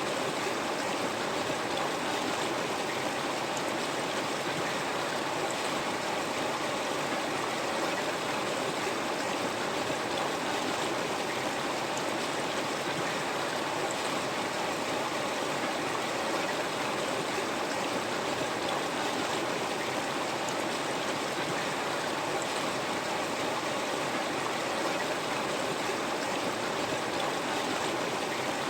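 A river flowing: a steady rush of running water with an even, unbroken level.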